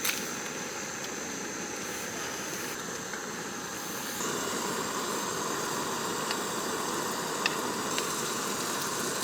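Gas camping stove burners running with a steady hiss under boiling pots. About four seconds in, the sound gets louder and brighter, and a few faint ticks follow.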